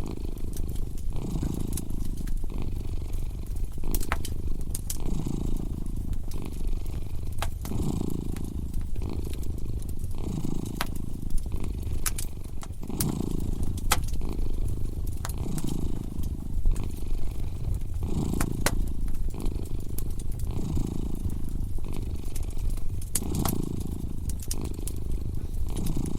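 A domestic cat purring steadily, the purr swelling and fading with each breath about every second or so, over a wood fire crackling with scattered sharp pops.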